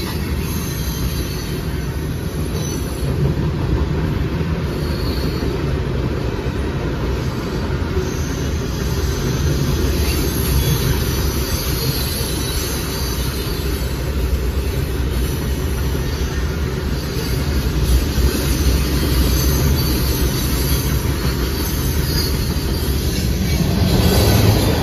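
Freight cars of the CSX M602 manifest, covered hoppers and tank cars, rolling past: a steady low rumble of steel wheels on rail, with a faint high squeal at times.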